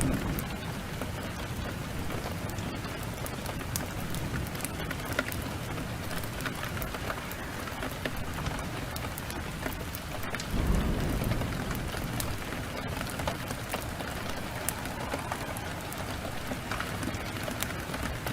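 Heavy rain pouring steadily, with a low rumble of thunder about ten seconds in and scattered sharp crackles from a wood fire.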